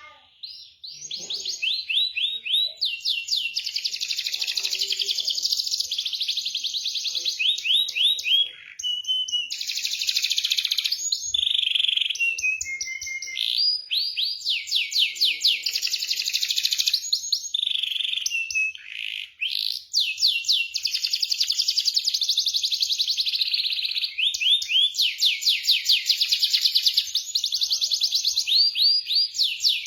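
Domestic canary singing a long song of rapid rolling trills and repeated rising whistled notes, with only brief breaks. It is a bait song, played to set off a canary that has gone silent.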